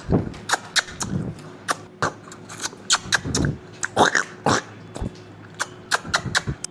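Kinder Joy eggs' plastic wrappers and capsules being handled and opened: a quick, irregular run of sharp clicks, crackles and short plastic squeaks.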